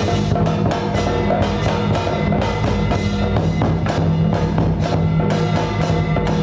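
Music with drums and wood-block-like percussion keeping a steady beat of a few strokes a second, over steady held tones.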